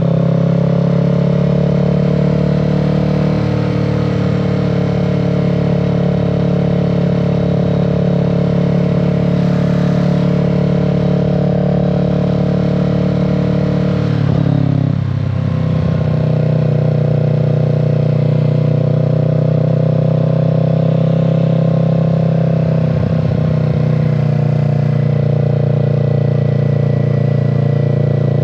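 Kawasaki Z650's parallel-twin engine and exhaust under way at a steady cruise, its note dipping briefly about halfway through and again near the end.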